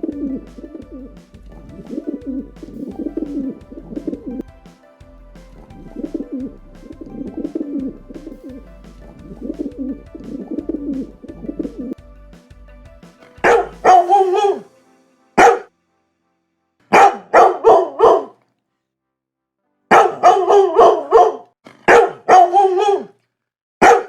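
Pigeons cooing, a low call repeated about every second and a half. About halfway through, a dog starts barking in quick runs of several loud barks, with short silent pauses between the runs.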